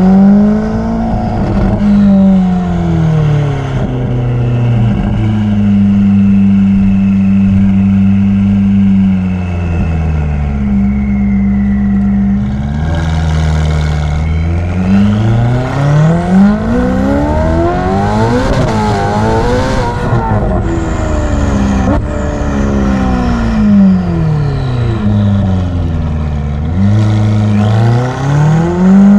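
Ferrari F8's twin-turbo V8 through a Novitec sport exhaust, driven hard. The engine note climbs and falls again and again as it accelerates, changes gear and slows, reaching its highest revs about two-thirds of the way through.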